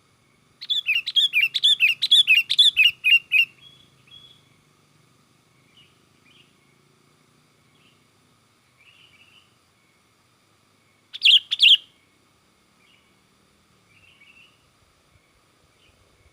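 Sooty-headed bulbul (kutilang) singing excitedly: a fast run of bright chirps, about four a second for some three seconds, then a few soft scattered notes and a short burst of three loud chirps near the end.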